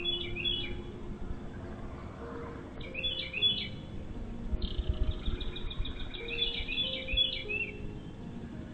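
Birds chirping in quick runs of high notes, in three bouts: one at the start, one about three seconds in, and a longer one from about four and a half seconds to seven and a half seconds.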